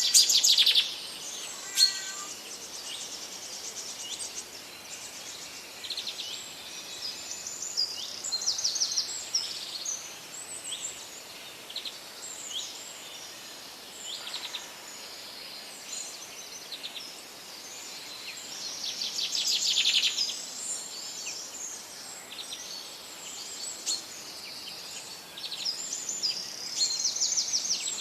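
Several wild birds singing and calling together: a mix of short chirps and fast rattling trills over a steady background hiss. The loudest trills come just after the start and again about 20 seconds in.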